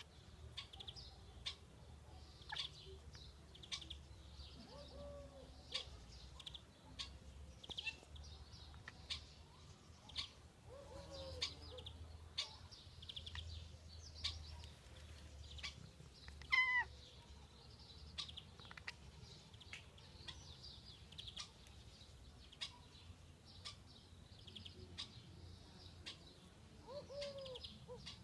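A cat meowing a few times, short arched meows, with one louder call about halfway through, over small birds chirping repeatedly in the background.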